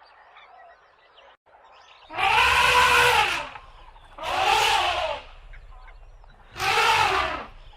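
An animal calling three times, each call long and pitched, rising and then falling.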